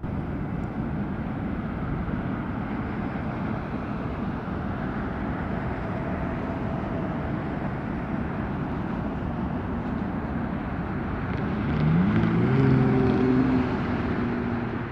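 Airbus A400M Atlas's four turboprop engines running as it taxis, a steady rushing noise with a faint hum; about twelve seconds in it grows louder and several whining tones climb in pitch and then hold.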